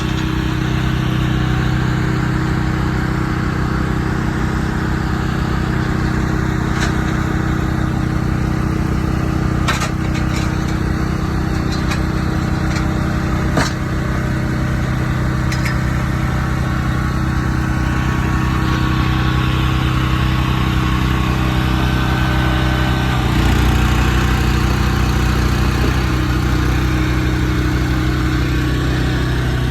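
Truck engine idling steadily, its low note changing and growing a little louder about 23 seconds in. A few short knocks come over it in the first half.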